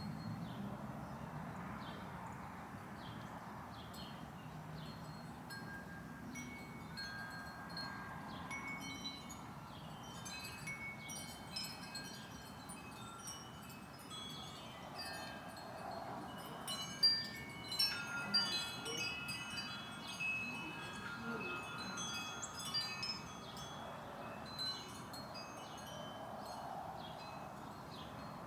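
Wind chimes ringing on and off, many overlapping tones at different pitches, busiest past the middle.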